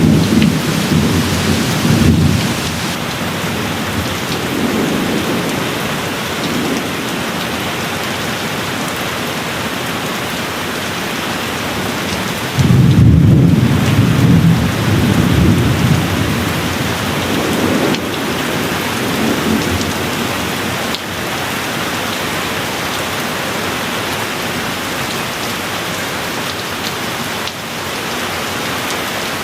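Steady rain falling, with rolling thunder underneath. A louder rumble of thunder breaks in suddenly about halfway through and dies away over a few seconds, and a softer roll follows.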